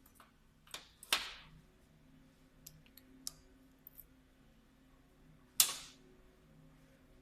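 Hand tools and small parts knocking and clicking as they are handled and set down: a sharp knock about a second in, a few light ticks, and another sharp knock near the end.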